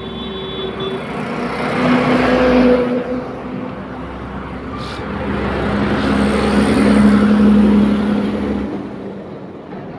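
Two motor vehicles passing close by on a road one after the other, each rising in level and fading away. The second pass is louder and longer and carries a steady engine hum.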